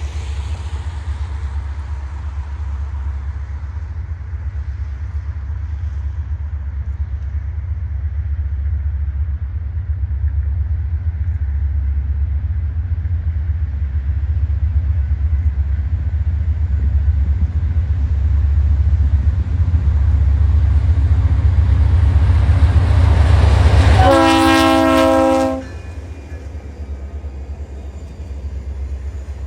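Diesel freight locomotive passing with a heavy low rumble that grows louder, then a single short horn blast of several notes together about three-quarters of the way through.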